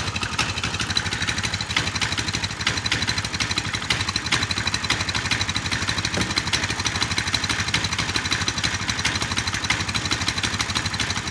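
Coleman CT200U-EX mini bike's 196cc single-cylinder four-stroke engine idling steadily, warming up after its first start of the day.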